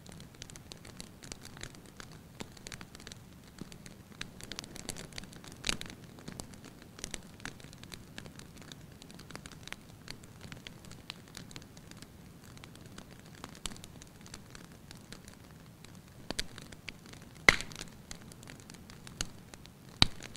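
Wood fire crackling in a fireplace: a steady run of small irregular crackles over a low rumble, with a few sharper pops, the loudest about three-quarters of the way through and another just before the end.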